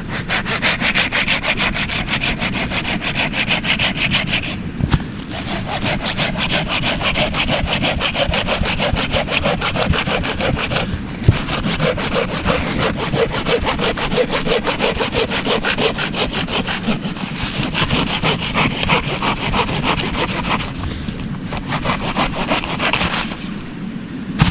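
Hand saw cutting through wood in rapid, even back-and-forth strokes. It pauses briefly about five and eleven seconds in and eases off for a moment near the end.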